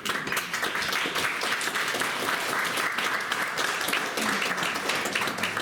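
Church congregation applauding, steady clapping of many hands that starts suddenly and tails off near the end.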